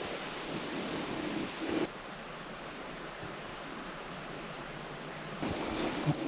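Insects chirping in the woods, a high steady trill with a pulsing call of about three to four beats a second over it, starting about two seconds in and stopping near the end, over a faint rustling background.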